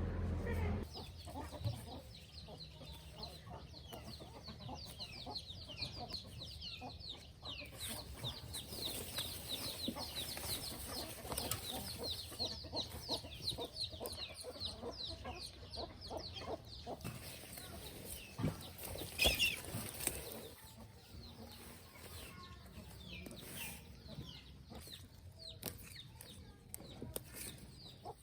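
Chickens clucking, with many quick high chirps for most of the stretch and a louder call about two-thirds of the way in.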